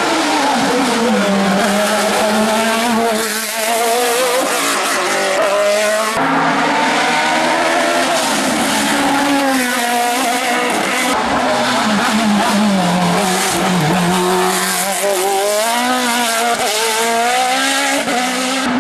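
Race car engine running hard, its pitch climbing and dropping again and again through gear changes.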